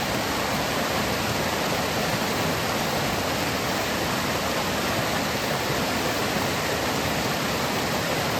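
Waterfall: a steady rush of falling water, even and unbroken, cutting off abruptly at the end.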